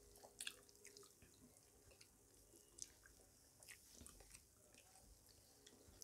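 Faint chewing and wet mouth smacks of people eating rice and curry by hand, with scattered soft clicks of fingers working food on a plate.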